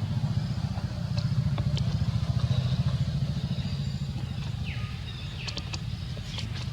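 A small engine running steadily with a low, rapidly pulsing rumble, with a few faint clicks and short high chirps in the second half.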